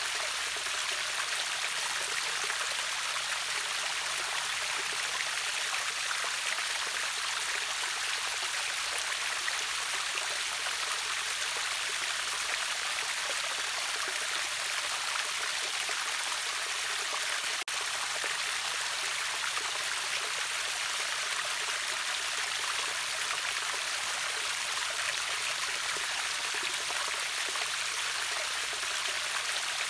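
River waterfall rushing steadily: an even hiss of falling and running water, bright with little low rumble. A very brief dip in the sound comes a little past halfway.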